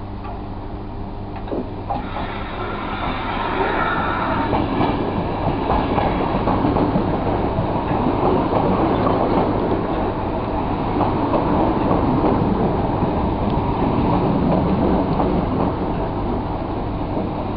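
Intercity train of Mk3 coaches running into the platform close by: wheels rumbling and clattering on the rails, growing louder about two to four seconds in as the coaches come alongside and then holding steady, with a thin high squeal at the start of the build.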